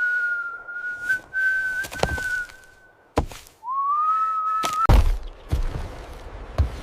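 Whistling: one long held note that stops about three seconds in, a sharp click, then a second note sliding up and held for about a second. It is cut off by a loud thump, followed by a few scattered knocks.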